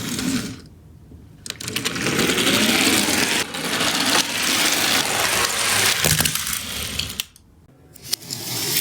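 Toy garbage truck minicars rolling down a slope: a steady rattling whir of small wheels and plastic parts, full of clicks, that stops briefly near the end before starting again.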